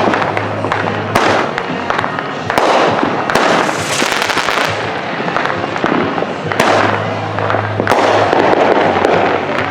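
Consumer fireworks going off all around: a steady run of overlapping bangs and pops, with a dense burst of crackling about four seconds in.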